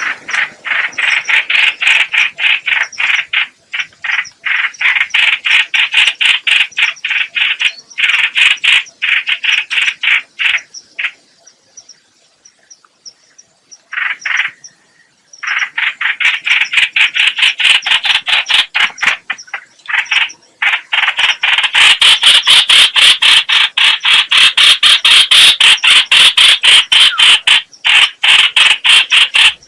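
Trao trảo (chao chảo, hoành hoạch) bird call, used as a trapping lure: long runs of rapid, harsh, chattering notes repeated many times a second. The calling breaks off briefly about halfway through, then comes back louder and denser.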